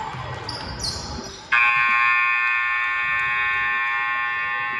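Gym scoreboard buzzer sounding one long steady blast of about three seconds, cutting in abruptly about a second and a half in. Sneakers squeak on the hardwood just before it.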